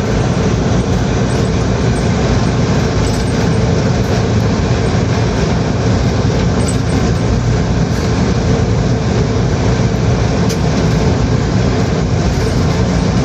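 Train passing through a station, a loud, steady rumble of the train running on the rails.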